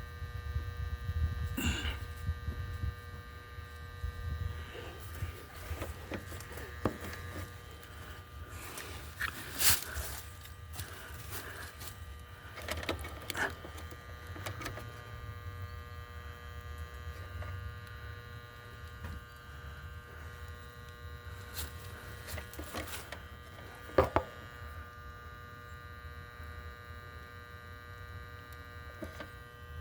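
A steady electrical or mechanical hum with several steady tones, broken by scattered clicks and knocks, the sharpest about two thirds of the way in.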